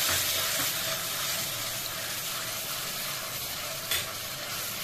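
Onion and ginger-garlic paste sizzling and hissing steadily in hot oil in an aluminium kadai, a little water just added so it spits and steams, while a wooden spatula stirs it; one light click about four seconds in.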